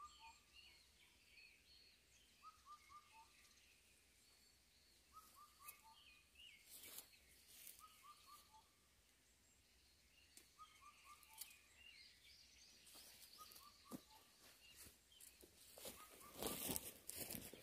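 Faint wild birdsong: one bird repeats a short phrase of three or four quick notes about every two and a half seconds, with higher chirps from other birds between. Near the end there is a brief burst of rustling.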